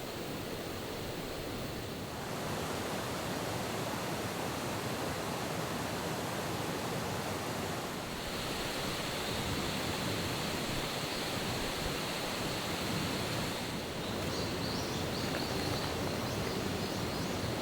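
A steady outdoor rushing noise, like flowing water or wind, shifting slightly in level a few times, with a few faint ticks near the end.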